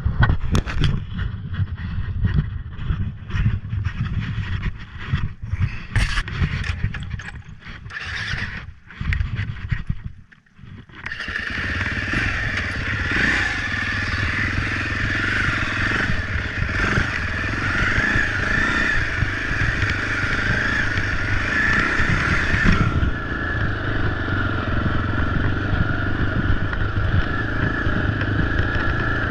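Husaberg FE 450 dirt bike engine running under way, mixed with heavy wind rushing and buffeting on the microphone. The sound drops out briefly about ten seconds in, then comes back as a steadier, denser rush of engine and wind.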